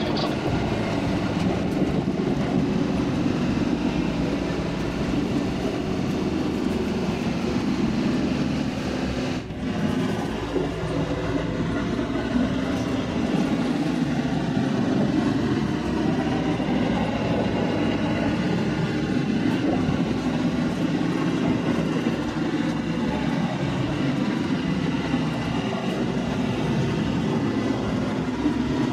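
Electric train running along the track, heard from inside the front car: a steady rumble of wheels on rails, with a brief dip about nine and a half seconds in.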